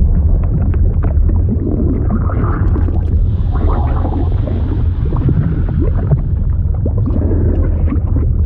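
Fluid sound effect: a steady deep rumble under bubbling, gurgling liquid sounds with many small scattered pops.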